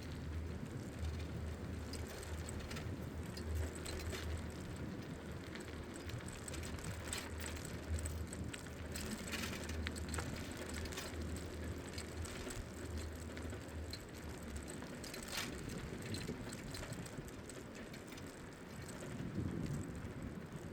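Bicycle freewheel ticking and the bike rattling over the path, with scattered sharp clicks. Low wind buffeting on the microphone pulses underneath and dies away about two-thirds of the way through.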